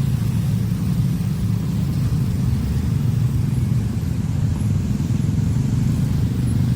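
A train passing at a level crossing, heard as a steady, loud low rumble of wheels and carriages with no warning tones.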